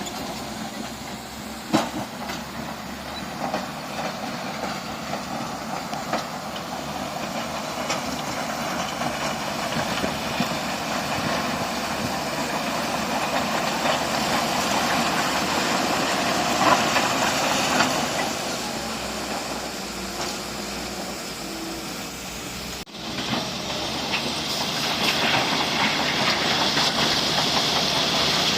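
Heavy earthmoving machinery running, a dense engine noise with a few sharp clanks. About 23 s in the sound cuts off abruptly and is replaced by a brighter, hissing rush.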